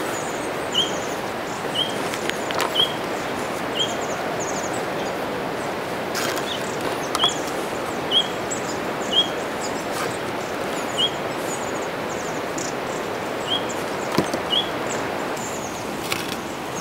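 A small bird repeating a short rising chirp about once a second, with a couple of pauses, over a steady outdoor hiss. A few light knocks and rustles come from cord and wooden poles being handled during lashing.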